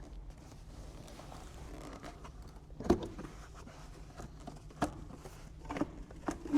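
Heater pipes being pushed through plastic trim in an engine bay: faint rubbing and rustling, with a sharp knock about three seconds in and a lighter one near five seconds.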